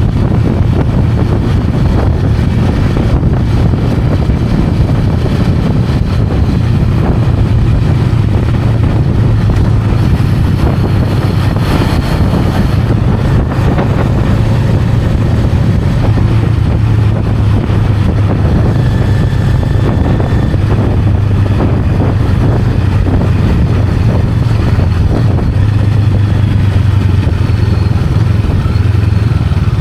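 Honda Rebel 500's parallel-twin engine and exhaust running steadily while riding, with small rises and falls in engine speed.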